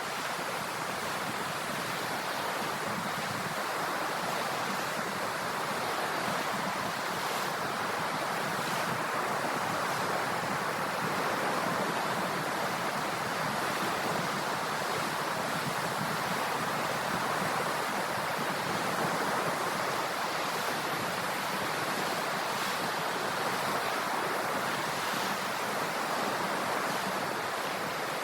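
Ocean surf: a steady wash of waves breaking and running up the shore, swelling and easing slightly, with no single crash standing out.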